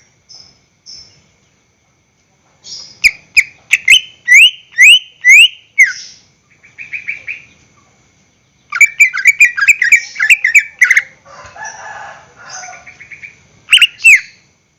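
Greater green leafbird (cucak ijo) singing: bursts of quick, loud, rising whistled notes separated by short pauses, with a harsher chattering passage just after the middle.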